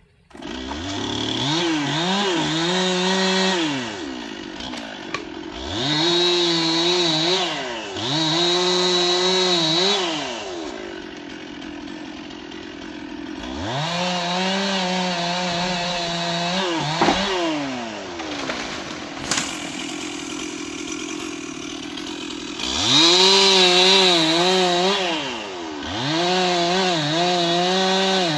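Stihl chainsaw starting up, then revved to full throttle six times in bursts of two to four seconds and dropping back to idle between them. During several bursts the engine pitch sags and wavers as the chain bites into wood.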